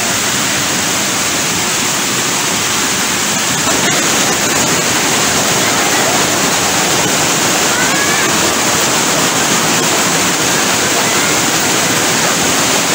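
Steady rushing of white water pouring over rock cascades into a river pool.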